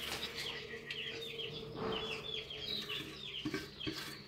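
Bird chirping: a run of short, falling chirps, about three a second, with a couple of soft knocks near the end.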